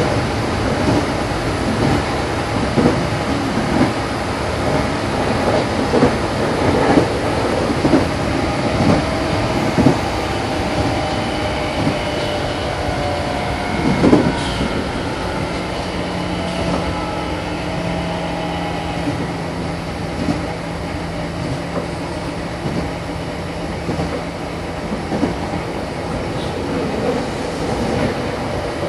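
Meitetsu 6500 series electric train running, heard from inside a car: a steady rumble of wheels on rail with irregular rail-joint clicks. In the middle a steady low motor hum comes in for several seconds and then fades.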